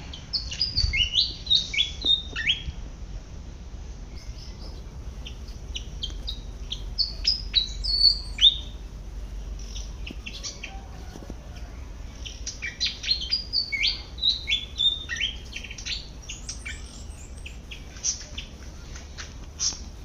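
Pied fantail singing: quick phrases of high, squeaky notes that jump up and down, in three bursts with scattered single chips between.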